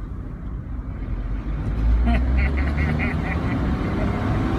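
Smart car engine accelerating hard from a standstill: its low drone swells about two seconds in and holds at full throttle. Over the engine comes a quick run of short, high-pitched yelps, about five a second, lasting a second and a half.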